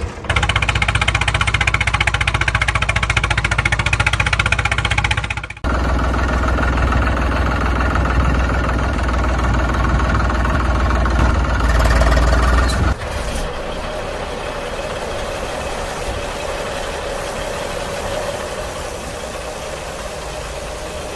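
Heavy engine running and idling with a rough, knocking rumble, in three steady stretches that change abruptly about 5.5 and 13 seconds in, the last one quieter.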